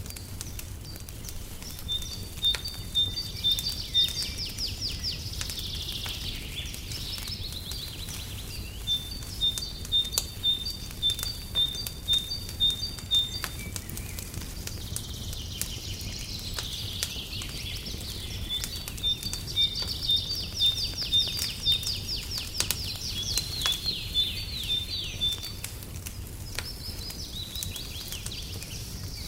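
Songbirds singing in two long bouts of quick, high repeated chirps and trills, over a crackling fireplace with scattered small pops and a steady low rumble.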